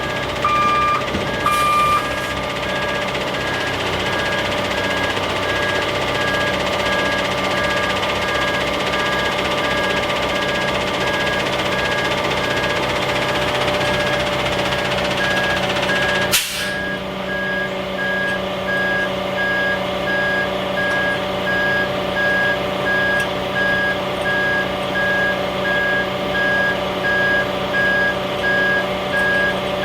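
Truck engine running steadily while a back-up alarm beeps about twice a second. A second, lower-pitched beeper also sounds for the first two seconds, and there is one sharp click a little past halfway.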